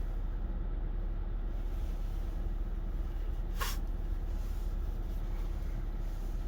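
Steady low background hum with one short breathy hiss about three and a half seconds in.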